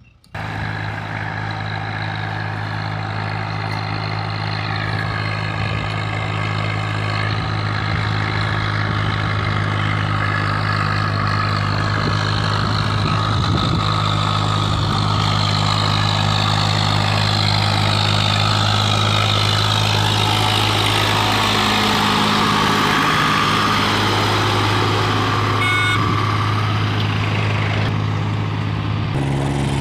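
A tractor's diesel engine running steadily under load, hauling a fully loaded trolley. Its note shifts briefly a little past two-thirds of the way through.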